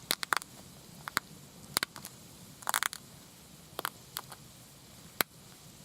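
Irregular sharp clicks and short scrapes, about nine in all, from hand work with broken stone saw flakes and a wooden arrow shaft. The longest scrape comes near the middle.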